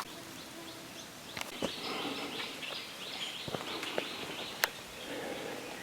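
Countryside ambience with a bird chirping in a quick repeated series of high notes, about four a second, through the middle stretch, and a few scattered sharp clicks.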